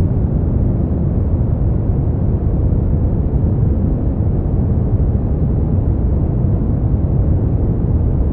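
Steady brown noise: a deep, smooth, even rushing sound, strongest in the bass, with no changes or events.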